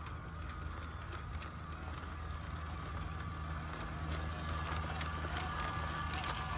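Small brushed 370 electric motor and metal single-speed transmission of a 1:16 scale RC crawler truck whining steadily as it crawls, the pitch wavering slightly, with a low hum underneath and light scattered clicks.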